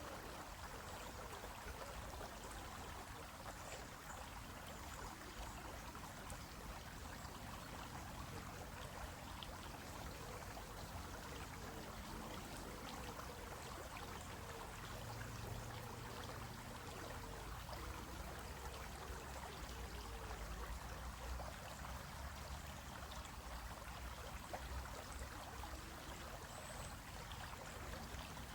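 Shallow stream flowing over rocks, a steady babbling rush of water with fine trickles, and a low rumble underneath in the second half.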